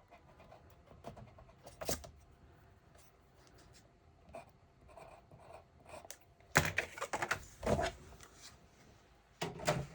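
Paper and cardstock being handled and trimmed: a few faint clicks and rustles, then a louder run of scraping, rustling strokes about two-thirds of the way through.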